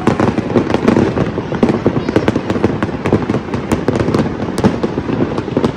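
Fireworks display going off in a dense, unbroken barrage of cracks and pops, many each second.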